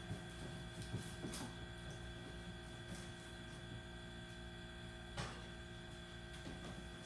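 A steady low hum with a few faint clicks or knocks.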